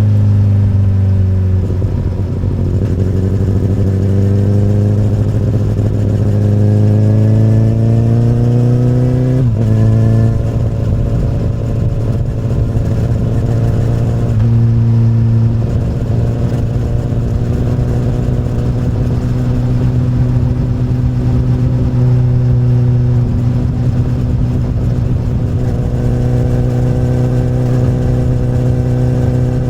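Honda CBR1000RR's inline-four engine running through an Akrapovic carbon slip-on exhaust. The note dips, then climbs steadily as the bike accelerates, drops sharply about a third of the way in, and then holds a fairly even pitch at a steady cruise with small changes in throttle.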